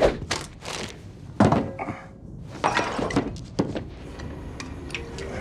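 A quick string of sharp knocks and thuds with light clinks, about eight of them in the first four seconds. After that a steady even rumble goes on.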